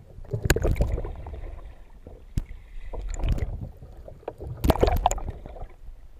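Water splashing and sloshing around a kayak in three bursts, each lasting under a second, with one sharp knock between the first two.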